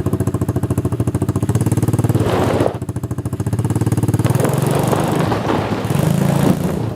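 Pit bike engine running with a fast, even putter, with a short rushing noise about two seconds in, then picking up and running harder for a couple of seconds as it starts to pull the plastic sled.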